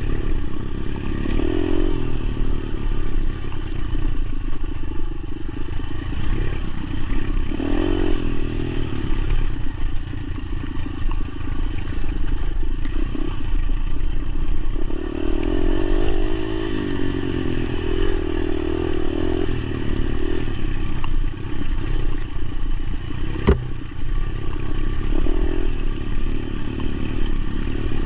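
Motorcycle engine running under way, its note shifting in pitch several times, with one sharp click late on.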